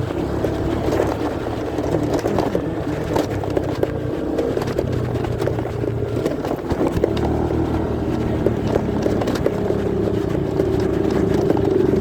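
Muffled motorcycle riding noise picked up by a phone in a pocket: a steady engine hum with road noise, and frequent rustling and scraping of fabric against the microphone.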